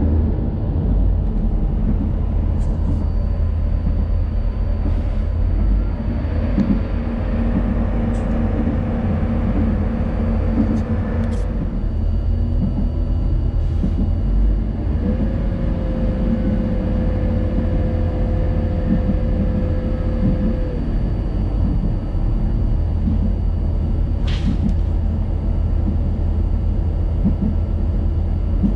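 Inside a Renfe Feve two-car diesel multiple unit running on narrow-gauge track: a steady low rumble of the moving train. A held whine comes in twice in the middle for about five seconds each, and a few sharp clicks sound along the way.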